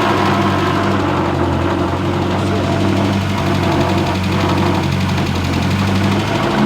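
1970 MG Midget's 1275 A-series four-cylinder engine running steadily at idle, freshly restored, while its twin SU carburettors are being balanced.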